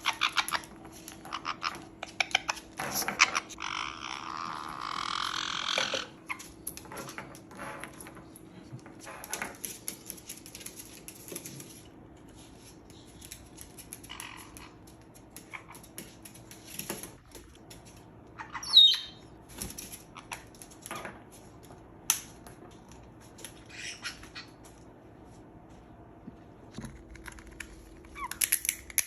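Pet lovebirds giving short squawks and chirps among scattered sharp clicks and taps, with one loud squawk about two-thirds of the way through. A rustling noise runs for a couple of seconds early on, over a faint steady hum.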